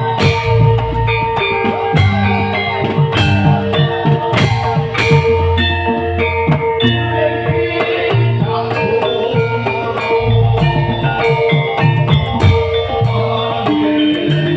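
Live band music: drum kit, guitar and keyboard playing, with one steady tone held under the music.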